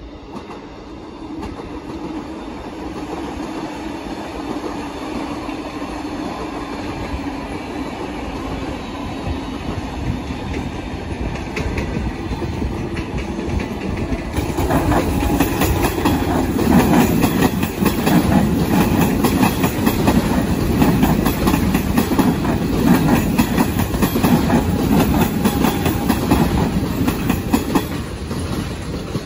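Train running on the rails and growing louder: a steady hum at first, then from about halfway a dense clickety-clack rattle of wheels over the track.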